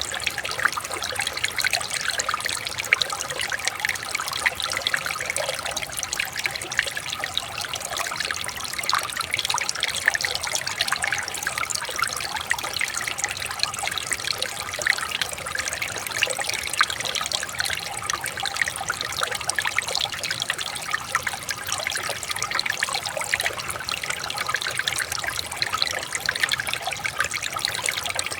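Shallow river water trickling and burbling over stones, steady throughout.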